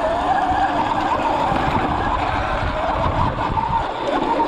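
Dirt bike running and riding, its pitch rising and falling as the throttle is worked, with rumbling wind noise on the microphone.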